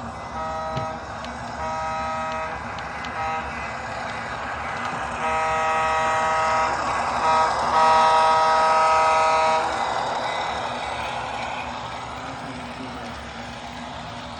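Rapido F7 diesel locomotive's sound system: a multi-chime horn blown in a long, long, short, long pattern, then a short blast and a long one, over the steady running of the diesel engine. The horn stops about two-thirds of the way through and the engine keeps running.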